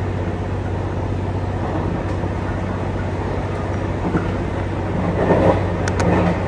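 JR Kyushu YC1 hybrid diesel railcar running along the track: a steady low hum from its diesel generator engine over a constant rumble of wheels on rail. The noise swells briefly near the end and two sharp clicks follow.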